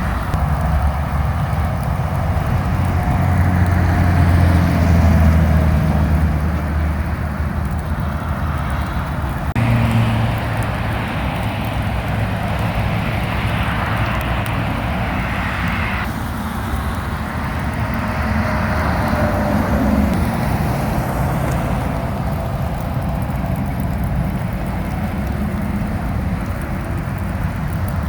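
Highway traffic in the rain: heavy trucks and cars passing, with a steady diesel engine drone and wet tyre noise. The sound changes abruptly twice, about a third of the way in and again past halfway.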